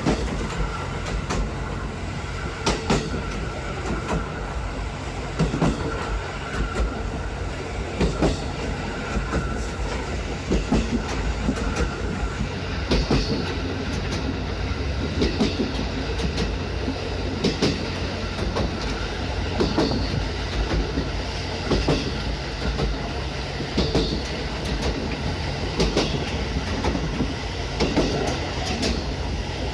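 Train running along the line, heard from a passenger coach: wheels clacking over rail joints every second or two over a steady low rumble.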